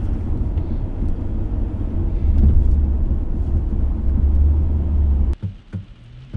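Loud, steady low rumble of a car, which cuts off suddenly about five seconds in; after it, a few scattered light taps.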